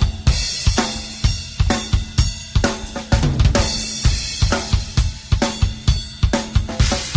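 Acoustic drum kit played solo: a steady run of kick drum and snare hits, several a second, with hi-hat and cymbal wash over them.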